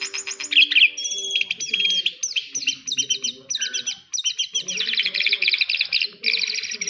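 Small songbird singing a fast, nearly unbroken chattering song of rapid high chirps and quick sweeps, with a brief pause about four seconds in.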